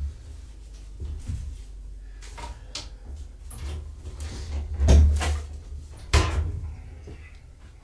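Pet carrier being handled: a run of knocks and clunks, with two sharp loud ones about five and six seconds in.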